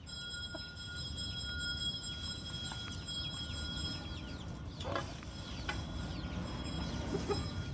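Chickens clucking with many short bird chirps, and one louder call about five seconds in.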